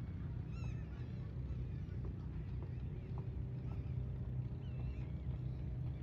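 Scattered short bird calls over a steady low rumble, with a faint drawn-out tone for a couple of seconds in the middle.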